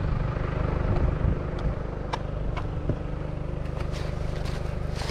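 A vehicle engine running steadily at a constant speed, with scattered light clicks in the second half.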